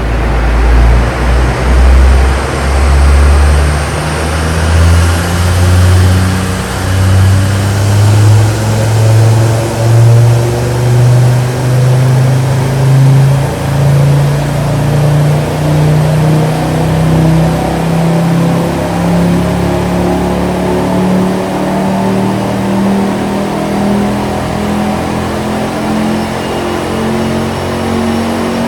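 Tuned, turbocharged Ford Focus ST engine with a decat turbo-back exhaust, revving under load on a rolling-road dyno. The pitch climbs slowly and steadily from low revs to high revs over the whole pull, which starts suddenly.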